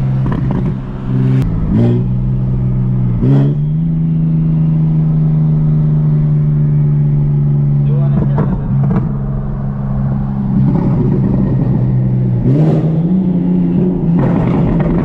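Turbocharged BMW 335i inline-six under way from inside the car, holding steady revs for long stretches. The revs drop and climb again briefly near the start, about three seconds in and near the end, as with gear changes. A few short sharp sounds cut through.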